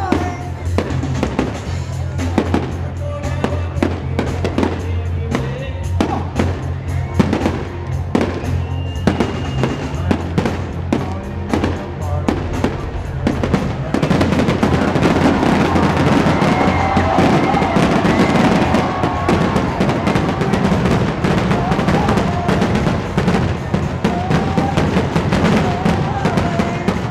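Fireworks bursting in a rapid string of bangs over music with a steady bass. About halfway through, the bursts thicken into a louder, dense, continuous barrage with crackling.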